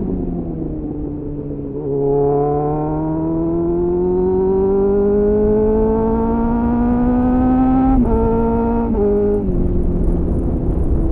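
2001 Suzuki GSF 600 Bandit's inline-four engine through an aftermarket slip-on exhaust with a self-built dB-killer, heard from on the bike. The revs fall for about two seconds, then climb steadily for about six seconds under acceleration. Near the end the engine note drops in two quick steps and then holds steady.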